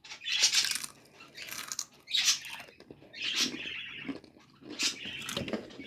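Crunching and chewing a Cool Ranch Doritos tortilla chip: a run of irregular crisp crunches, about six across a few seconds.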